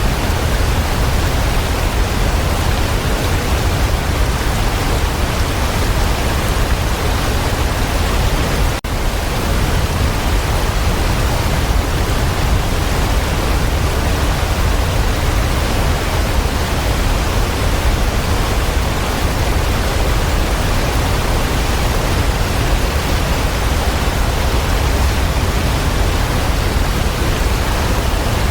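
Waterfall: a steady, even rush of falling water, heaviest in the low end, with a brief dip in loudness about nine seconds in.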